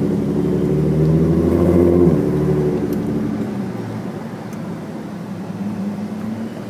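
A vehicle engine running at high, steady revs for about two seconds, then dropping off and fading to a quieter, lower running sound.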